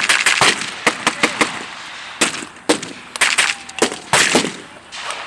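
Gunfire from blank rounds: a rapid burst at the start, then scattered single shots and short bursts of rifle and machine-gun fire.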